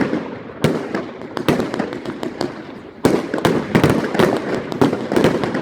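Fireworks salvo going off in rapid, crackling bangs, easing off in the middle before a sudden new volley about halfway through.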